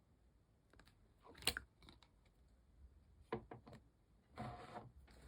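Slime being handled by hand: faint sticky clicks and squishes, the loudest about a second and a half in, a few more around three and a half seconds, and a longer squish near the end.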